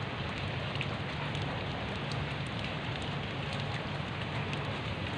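Steady rain falling into a shallow puddle, with individual drops heard striking the water now and then.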